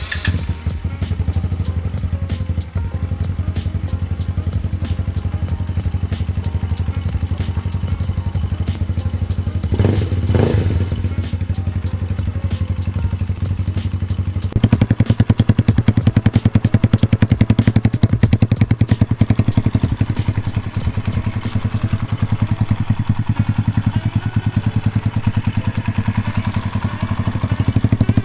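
Sachs Madass 125's single-cylinder four-stroke engine idling steadily on its first run after an oil change and a new spark plug. There is a brief swell about ten seconds in, and about halfway through the idle steps up to a higher, louder beat that holds to the end.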